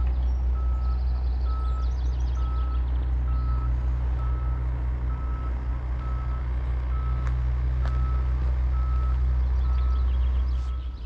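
Vehicle reversing alarm beeping steadily, one short tone about every two-thirds of a second, over the loud low rumble of a heavy vehicle's engine.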